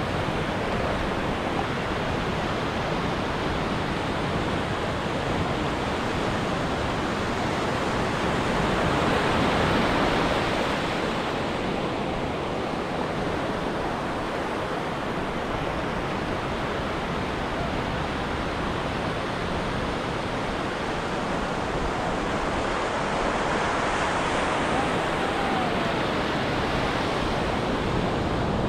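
Ocean surf washing onto a beach: a continuous rush of waves, swelling louder as a wave breaks about ten seconds in and again near the end.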